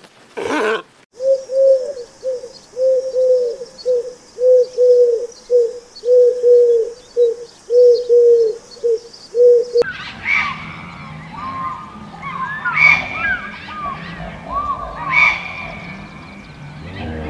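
A sea lion barks once at the very start. Then a grey crowned crane gives a long run of low, even booming notes, about two a second. From about ten seconds in come many bird chirps and whistles over a faint low hum.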